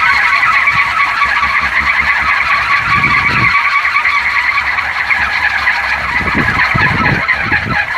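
Large wooden kolecer, a wind-driven propeller about a metre and a half across, spinning in the wind with a steady, loud, dense rattling whir: the 'jelegur' drone of the blades and axle. Low rumbles of wind on the microphone come in about three seconds in and again near the end.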